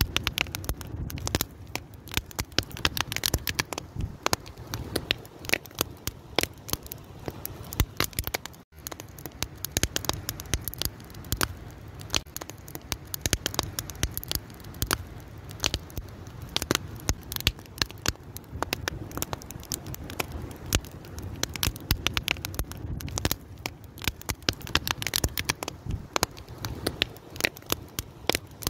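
Wood fire crackling: dense, irregular sharp snaps over a low steady rumble of the burning fire, with a momentary gap about nine seconds in.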